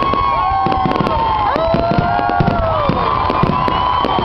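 Fireworks display: aerial shells bursting with a steady run of bangs and crackling, overlaid by several overlapping whistling tones that glide up and then down.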